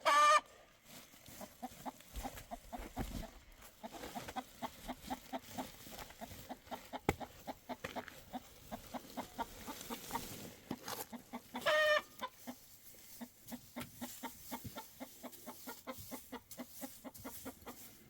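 Domestic chickens clucking, with two louder, higher calls: one at the very start and one about twelve seconds in.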